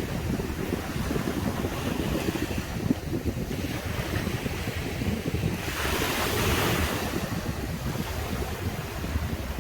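Caribbean sea waves breaking and washing up the beach, with wind buffeting the microphone in a steady low rumble. The hiss of a wave's wash swells about six seconds in.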